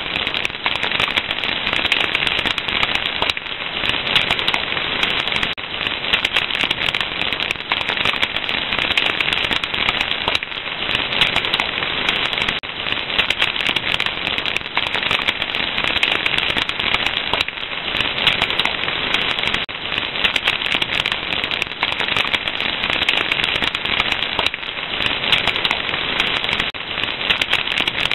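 Fire crackling steadily, with a dense, continuous stream of small pops and snaps.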